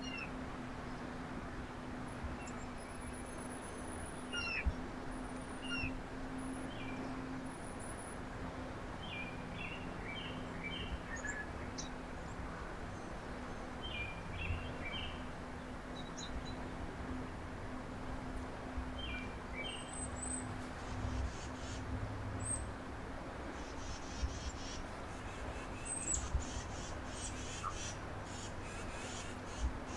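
Wild birds calling at a backyard feeder: scattered short chirps and high squeaky notes, busier in the second half, over a steady low hum.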